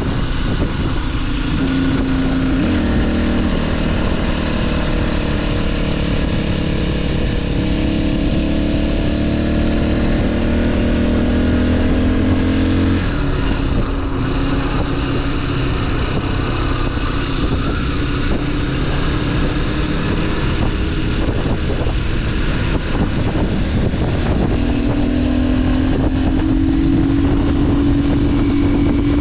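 Motorcycle engine running on the move, with steady wind noise on the microphone. The engine note steps up a few times, drops away about 13 seconds in, and climbs again near the end.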